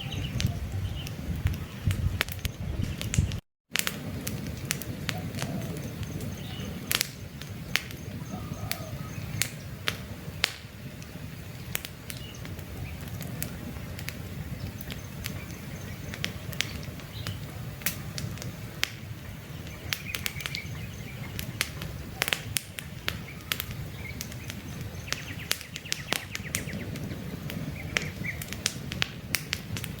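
Wood campfire crackling, with frequent sharp pops over the low rush of the flames, and birds chirping faintly. The sound cuts out completely for a split second about three and a half seconds in.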